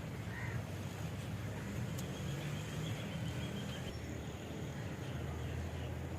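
Old black diesel engine running with a steady low rumble. A crow caws once near the start.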